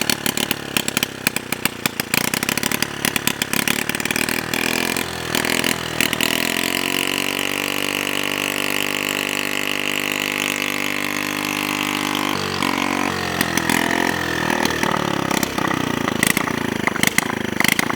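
Small single-cylinder four-stroke engine of a modified Honda Chaly motorcycle running, with an irregular clatter at first. About six seconds in the engine note rises and holds steady for several seconds, then drops back about twelve seconds in.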